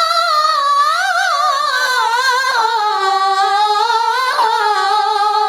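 Melodic Quran recitation (tilawah) in a single high voice, holding one long ornamented melisma on the word 'illā' with the pitch wavering and stepping gradually downward.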